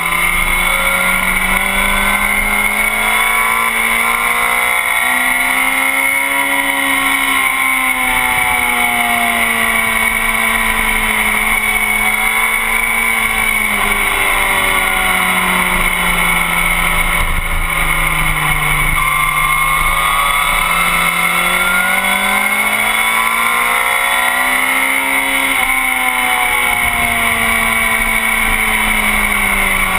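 Motorcycle engine at track speed, heard from the bike itself. Its note rises and falls slowly as the rider opens and rolls off the throttle through the corners, over a steady rush of wind and road noise.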